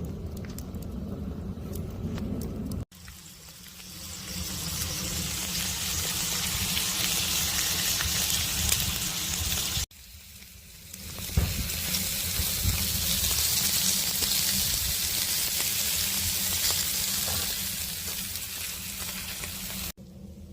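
Pork belly sizzling and spitting as it grills over a wood fire in a homemade gas-cylinder stove, a steady crackling hiss that builds up, breaks off and starts again about three seconds in and near ten seconds. A low rumble comes before the first break.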